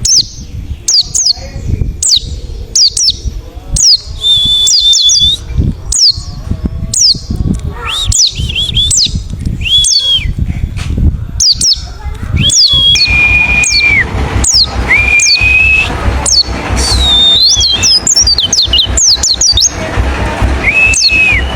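Wild white-eye (pleci) singing: a rapid string of high, downward-sweeping chirps, with several longer held whistled notes in the second half. A low rumble runs underneath.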